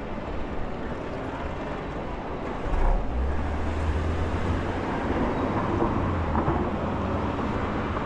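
Road traffic noise heard from a moving bicycle, with a deeper, steady vehicle rumble coming in about three seconds in.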